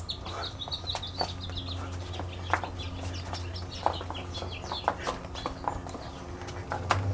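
Birds calling in short, high, rapidly repeated chirps, with scattered sharp clicks and a low steady hum underneath.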